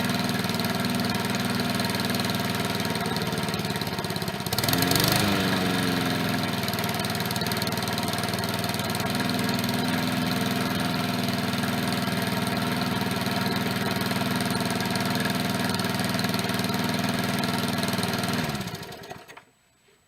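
Push mower's small engine running steadily. About four and a half seconds in it revs up briefly as the throttle is pushed, then settles back to a steady speed. Near the end it winds down and stops.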